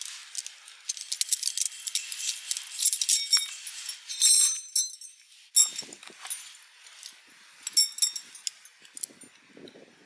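Light metal parts clinking and jingling as they are handled, in quick irregular clicks with short bright rings, loudest about four seconds in and again near eight seconds; a soft rustling follows near the end.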